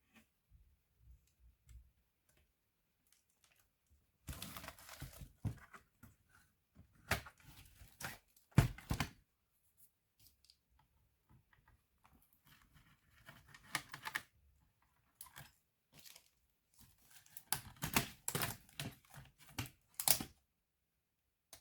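Plastic parts of a Lenovo B570e notebook being handled, giving irregular spells of clicking, scraping and crackling. The spells come a few seconds apart, with the sharpest clicks near the middle and near the end.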